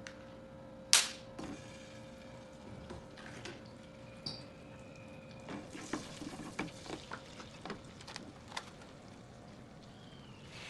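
Cooking utensils knocking in a frying pan as marinated beef goes in: one sharp knock about a second in, then a run of light clicks and taps in the second half.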